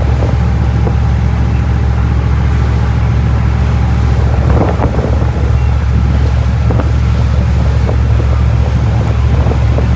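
Motorboat engine running steadily under way, a loud even rumble, with wind buffeting the microphone.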